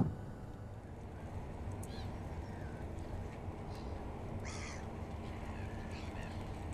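Several short bird calls, the strongest a harsh caw-like call about four and a half seconds in, over a steady low rumble. A brief thump right at the start.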